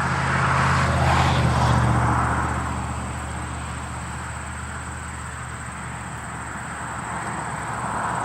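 Steady low drone of a vehicle's engine, swelling about a second in and then easing off as it passes.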